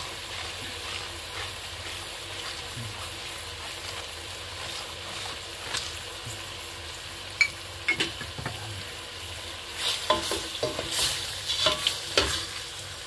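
Chicken pieces frying in a metal pot with a steady sizzle. A wooden spoon knocks and scrapes against the pot a few times past the middle, then in a quick run near the end as the chicken is stirred.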